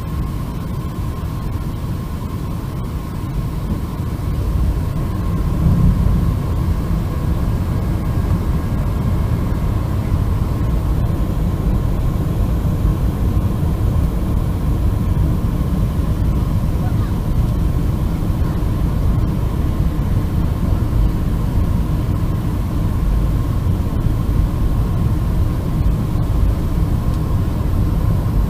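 Boeing 747-400 airliner noise: a steady low rumble of jet engines and airflow with a thin constant whine, growing a little louder about five seconds in.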